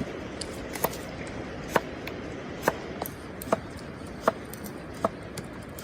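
Steady rain hiss with a wood fire crackling over it: sharp snaps about once a second, with fainter pops in between.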